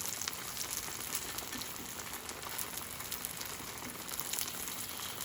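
Kimchi pancakes sizzling in oil in a frying pan, a steady dense crackle.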